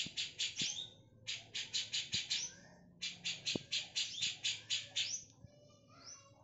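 Cucak jenggot, a bulbul, calling in fast runs of harsh, scratchy notes, about eight a second, in three bursts of one to two seconds. A brief thinner, pitched twitter comes about five seconds in.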